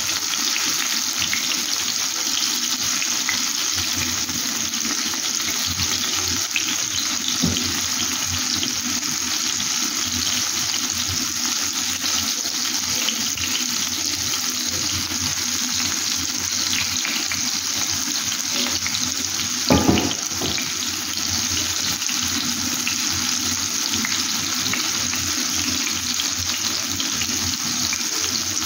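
Tomato slices sizzling steadily in hot oil in a frying pan, with a few light clicks and one louder short knock about twenty seconds in.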